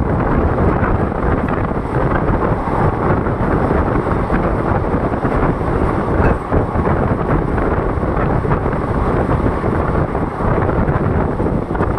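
Steady loud rush of wind buffeting the microphone over the running noise of a moving passenger train, heard from an open coach doorway.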